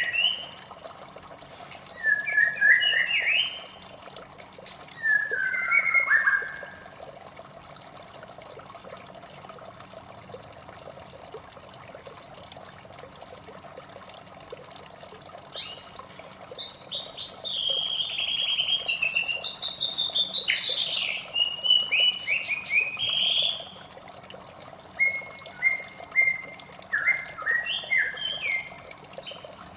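White-rumped shama singing: three short whistled phrases, a pause of about nine seconds, then a long, varied, loud song from about halfway, with more phrases near the end. A steady sound of running water lies beneath it.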